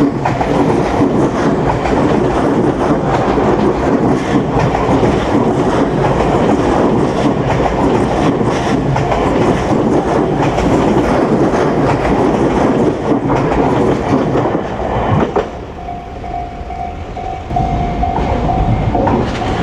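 A train passing close by, its wheels clacking steadily over the rail joints. About fifteen seconds in it clears and the noise drops away, leaving a level-crossing warning bell ringing in an even repeating tone.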